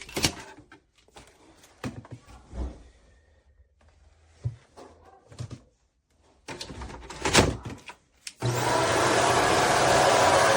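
A few knocks and clicks of handling, then about eight and a half seconds in a Shark cordless stick vacuum's motor switches on suddenly and runs with a steady loud whir and low hum.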